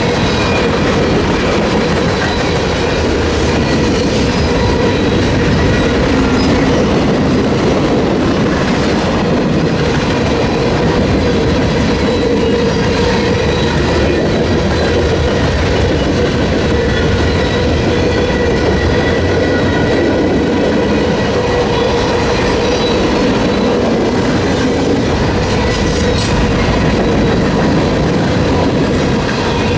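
Freight train cars rolling steadily past, with a continuous rumble and wheel clatter over the rails and a faint steady ringing from the wheels.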